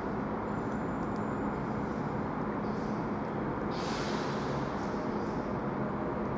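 Steady rumble of a train at a station, with a brief hiss about four seconds in.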